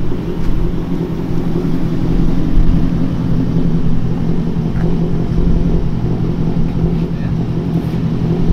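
Car engine running at steady revs, its low drone holding an even pitch.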